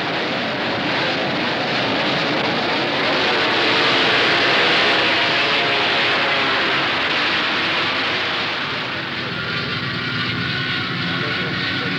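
Several racing motorcycle engines at high revs, their overlapping pitches rising and falling as a pack goes by, swelling to its loudest about four or five seconds in.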